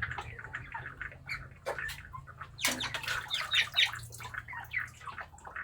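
Broiler chickens squawking and chirping in many short calls, with a louder, busier flurry about three seconds in.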